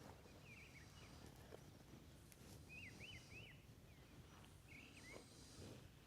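Faint bird calls: short chirping notes in small clusters of two or three, over a low steady outdoor rumble.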